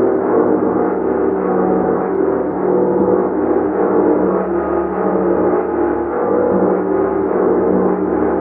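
A large gong played continuously, a dense wash of many overlapping ringing tones that swells and eases gently without any sharp strikes standing out.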